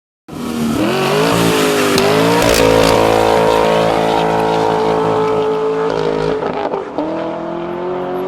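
1964 Chevrolet Impala's engine revving through a custom Magnaflow exhaust. The pitch climbs over the first couple of seconds and holds steady at raised revs. It drops briefly about six and a half seconds in, then climbs and holds again.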